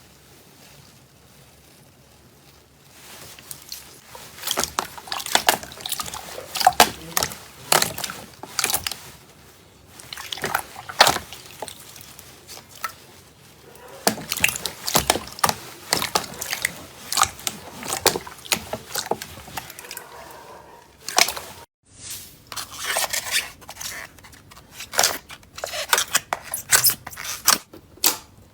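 Hands squeezing and stretching slime, with quick wet clicks, pops and crackles in irregular clusters. There is a short break a little over two-thirds of the way in, after which more slime crackling follows.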